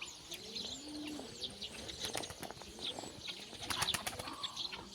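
Birds calling: a couple of low, arched cooing calls early on over a busy mix of short, high chirps and ticks.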